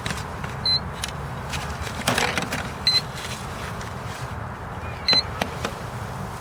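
Strong wind buffeting the microphone in a steady low rumble, with a short high electronic beep about every two seconds (three times) and a brief gust-like burst of noise about two seconds in.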